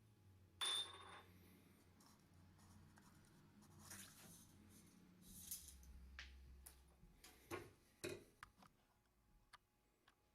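Faint clinks, scrapes and small knocks of metal taper parts and hand tools being handled. A sharp metallic clink that rings briefly comes about half a second in, and quieter scrapes and taps follow.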